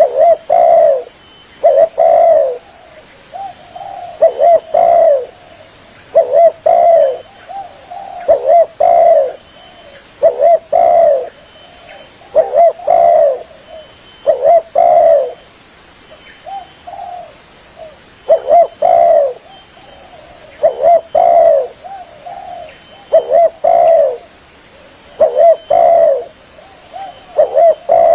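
Spotted dove cooing: short phrases of a few low coo notes, repeated about once every two seconds.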